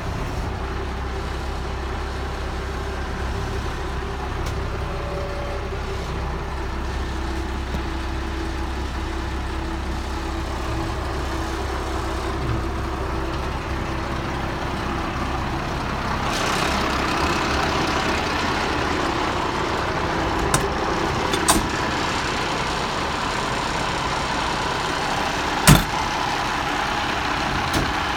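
1995 International 4900 truck's diesel engine idling steadily. A little past the middle the sound grows somewhat louder and noisier, and a few sharp knocks come in the last third, one much louder than the others.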